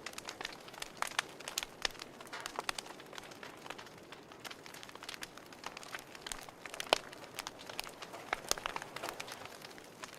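A wood fire crackling: irregular sharp pops and snaps, several a second, over a soft hiss.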